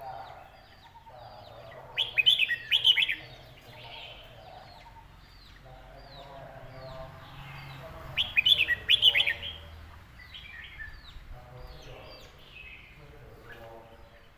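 Red-whiskered bulbul singing: two loud song phrases of quick notes, one about two seconds in and another about eight seconds in, with softer bird chirps in between.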